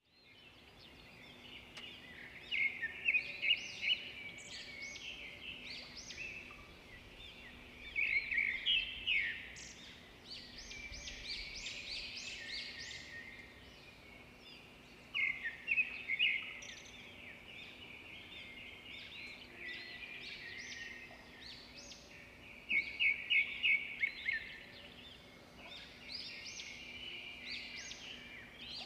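Small birds chirping and singing in repeated bouts of quick trills, the loudest bursts coming every several seconds, over a faint steady hum.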